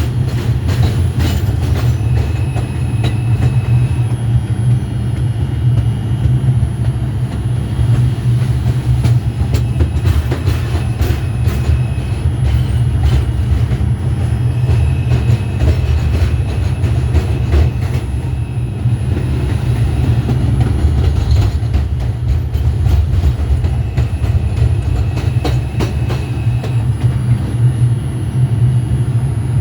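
R142 subway train in motion, heard from on board: a loud, steady rumble with scattered clicking of the wheels over the track, and a faint high whine that comes and goes several times.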